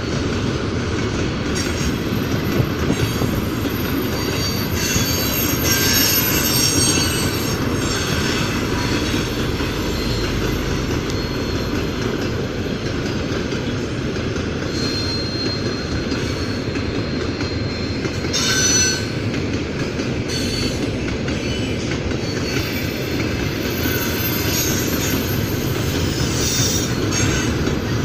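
Freight train wagons rolling by with a continuous low rumble, and steel wheels squealing high on and off, loudest around six seconds in, just before twenty seconds, and again near the end.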